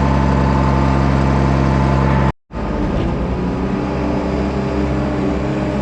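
Diesel farm machinery engine running steadily. The sound cuts out for a moment a little over two seconds in, then resumes with a different engine note.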